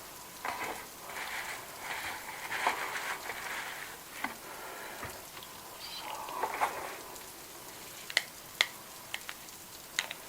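Close-up rustling and crinkling of goods being handled, then several sharp, separate clicks between about eight and ten seconds in.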